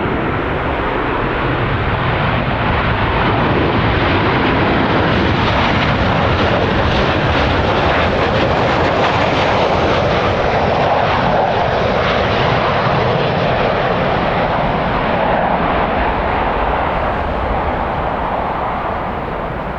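A passing jet airliner's engines: a steady, loud rush of engine noise that swells through the middle and fades near the end, with wind noise underneath.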